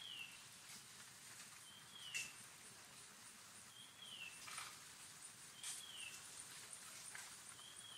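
A bird calling repeatedly and faintly, each call a short falling whistle, about one every two seconds. Behind it runs a faint, high, fast pulsing trill, with a few light clicks.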